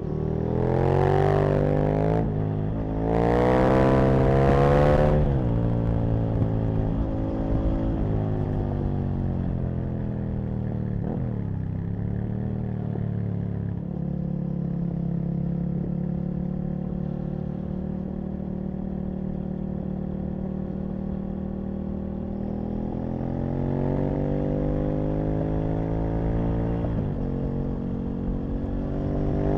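Aprilia RSV Mille's 60-degree V-twin pulling hard through two gears, its pitch rising sharply twice, then easing off to a steady cruise with a quick blip of the throttle around eleven seconds in. Near the end it rises again under acceleration, drops at a gear change, and starts climbing once more.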